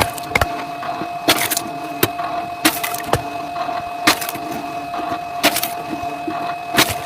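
Firewood being split: sharp wood cracks and splintering about once a second, over a steady machine hum.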